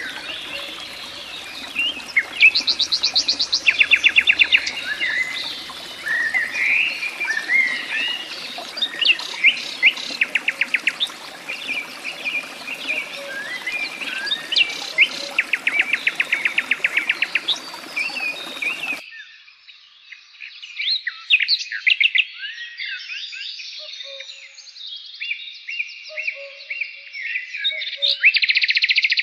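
Several birds chirping and whistling, with repeated rapid trills. About nineteen seconds in, the background hiss drops out abruptly and the bird calls carry on clean.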